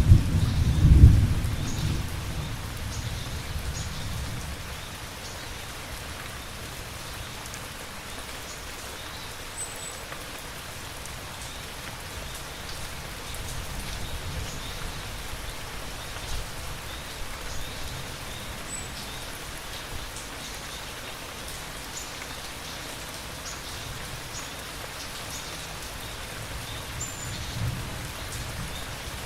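Steady rain falling, with a loud roll of thunder at the start that rumbles away over the first few seconds and a fainter rumble near the end.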